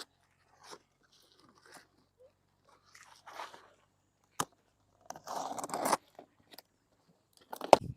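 Cardboard box and packaging being handled and opened: scattered short scrapes, a sharp click about four and a half seconds in, a louder noisy stretch of about a second a little later, and a loud knock near the end.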